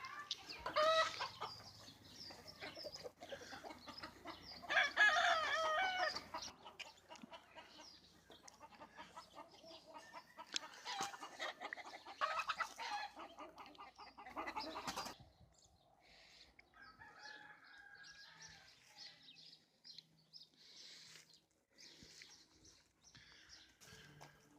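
Chickens clucking and calling, loudest about one second and five seconds in, with fainter, scattered bird calls in the second half.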